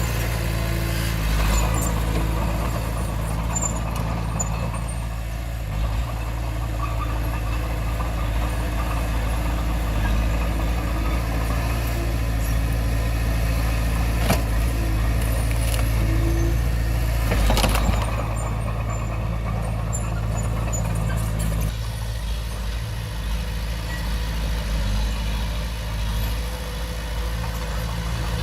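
Komatsu D20P bulldozer's diesel engine running steadily under work, with a few short clanks, the loudest about two-thirds of the way through. The engine note drops about three-quarters of the way through.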